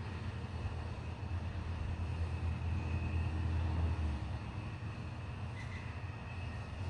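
Low rumble of rolling thunder, swelling about three to four seconds in and then easing, over a steady hiss.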